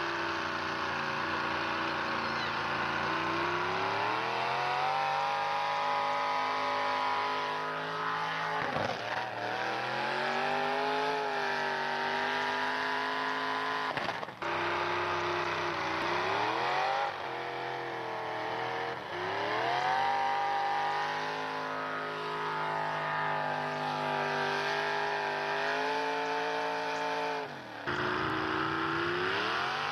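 Pulling truck's engine at high revs under heavy load. Its pitch rises and then drops sharply several times, about 4, 9, 14, 19 and 28 seconds in, before climbing again.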